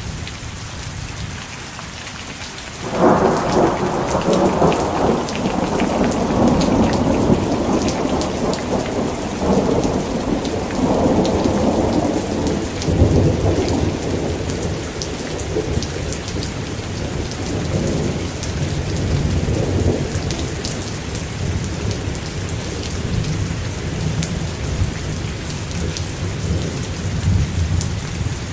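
Steady rain with a long thunderclap breaking suddenly about three seconds in, rumbling on in several rolling surges and slowly fading.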